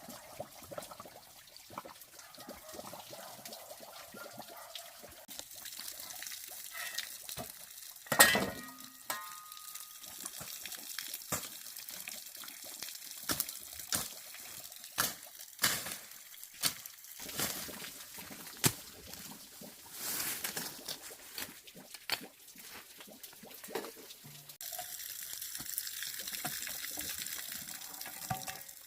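Water trickling and pouring, with scattered knocks and clatter of things being handled, and one loud clang about eight seconds in that rings briefly. The pouring grows steadier near the end.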